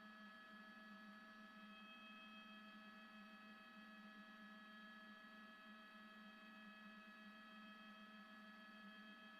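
Near silence: a faint, steady electrical hum and whine of several held tones over low hiss.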